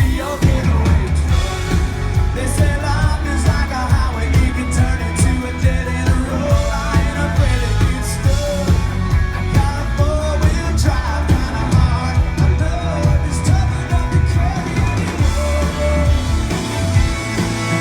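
Live country band playing a song with a lead singer, over heavy bass and a steady drum beat.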